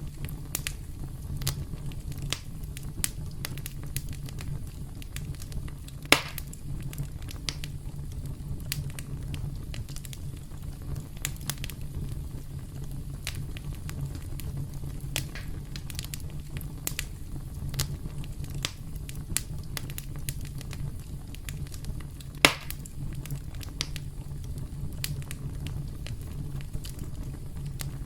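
Campfire burning with a steady low rumble and frequent irregular crackles, with two louder pops about six seconds in and near the end.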